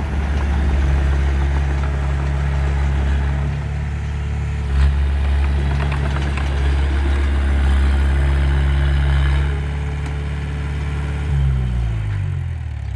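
Heavy diesel engine of a bulldozer running steadily, with a sharp knock about five seconds in. Near the end the engine speed falls away.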